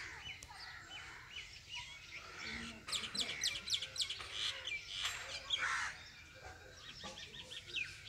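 Birds chirping and twittering, with a fast run of sharp high chirps about three seconds in and another quick series of chirps near the end.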